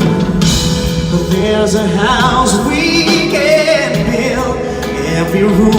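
Live pop ballad performance: a singer holds and bends wordless sustained notes with vibrato over band accompaniment.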